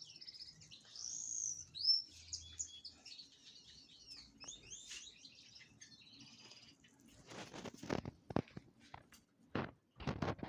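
Small birds chirping and singing, quick high whistled notes and short glides. In the last three seconds, a run of short scuffing noises.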